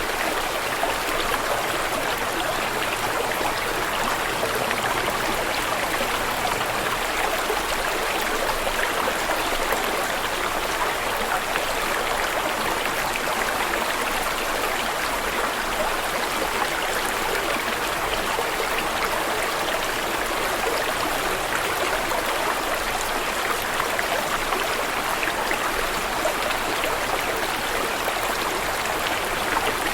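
Running water flowing steadily, an even rushing sound that holds without breaks or changes.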